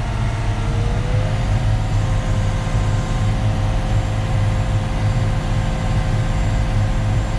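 Concrete mixer truck's diesel engine running steadily at raised revs to turn the drum during discharge. A steady whine rises slightly about a second in, then holds.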